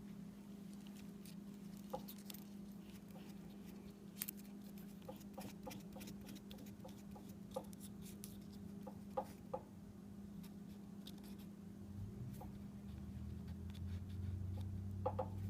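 Scattered light clicks and metal taps of a drill bit being fitted and tightened in a milling machine's chuck, over a steady low hum. A louder low hum comes in near the end.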